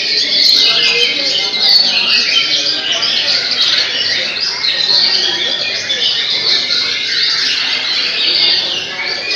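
Caged murai batu (white-rumped shamas) singing at once in a songbird contest: a dense, continuous chorus of quick whistles, trills and chatter.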